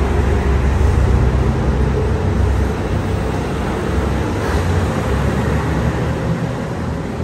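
Passenger train pulling out along the platform, its cars rolling past close by with a heavy low rumble. The rumble eases a little in the second half as the train moves away.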